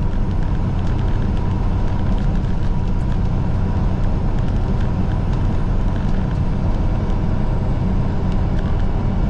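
Semi truck cruising on the highway, heard from inside the cab: a steady low drone of engine and road noise.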